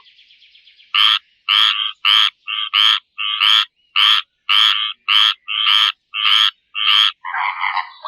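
A frog croaking in a fast, regular series of about a dozen short calls, roughly two a second, after a faint trill in the first second.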